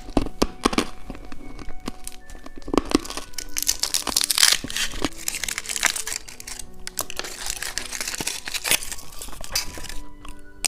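Plastic candy wrapper being crinkled and torn open by hand, with dense crackling that is loudest through the middle, over background music.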